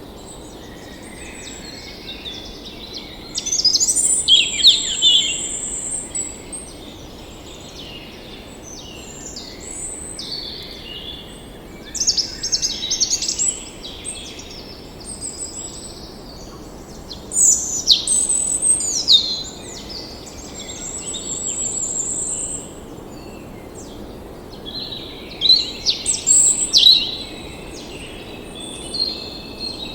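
Songbirds singing and calling in bursts of high chirps and trills, with several voices overlapping, over a steady background hiss.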